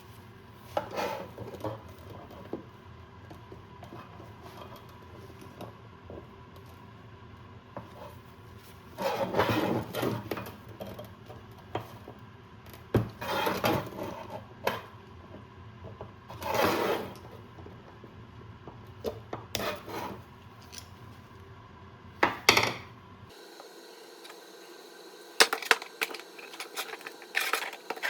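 Metal tools and small parts being handled on a workbench: irregular clinks, knocks and scrapes in short bursts over a low background hum, which cuts out near the end.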